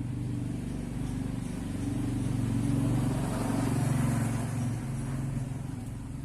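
A motor vehicle engine passing by, growing louder to a peak about three to four seconds in and then fading.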